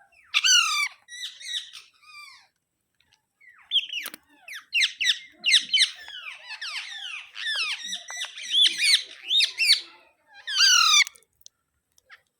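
Alexandrine parakeet calling: a string of harsh squawks and chatter, each call sliding down in pitch, with a loud squawk near the start, a busy run of calls through the middle and another loud squawk near the end.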